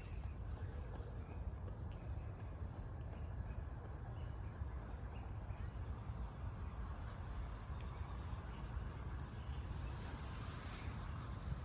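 Faint high-pitched insect chirping, short repeated chirps over a steady low rumble of outdoor background noise.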